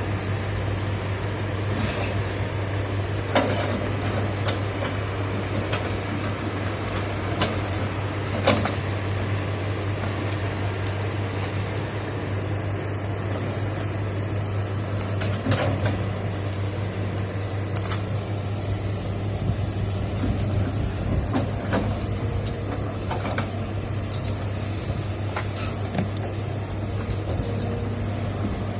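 Hitachi excavator's diesel engine running steadily, with sharp knocks every few seconds, the loudest about 3 and 8 seconds in.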